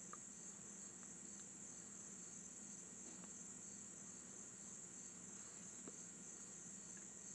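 Near silence, with a faint steady high-pitched chirring of crickets and a few faint clicks.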